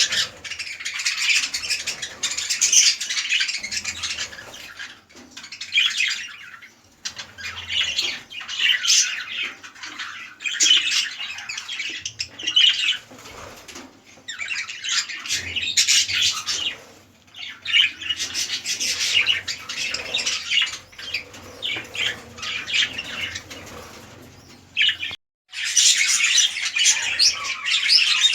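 Budgerigars chattering and chirping almost without pause, a busy mix of warbles and sharp calls, which breaks off for a moment about 25 seconds in.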